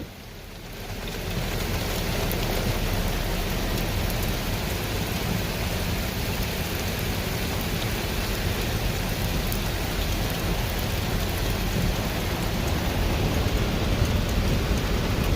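Heavy rain pouring on a car, a steady dense hiss with a low rumble underneath, rising in over the first second.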